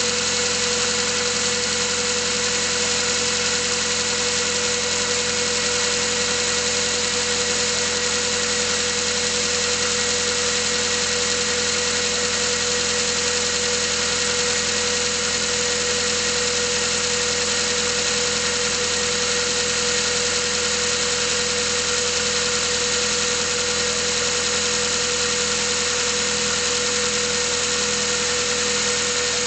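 Mazda 3 engine idling steadily while cold, with a steady tone running through its sound. This is the abnormal cold-engine noise for which Mazda replaced the pistons under warranty.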